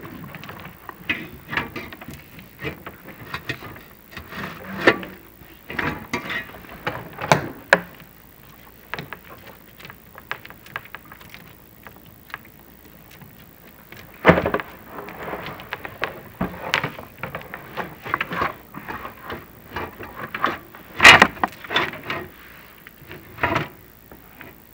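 Chimney inspection camera and its push cable scraping and knocking against the flue and smoke chamber walls: irregular clicks, rubs and knocks, with a few louder bangs, the strongest about two-thirds of the way through.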